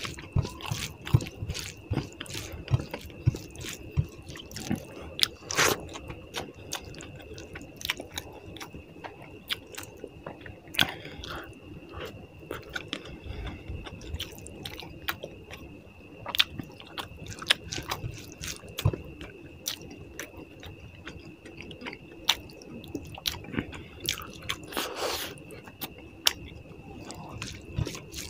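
Close-up chewing and wet mouth sounds of someone eating rice and fish curry, with many short smacks and clicks. A faint steady high tone runs underneath.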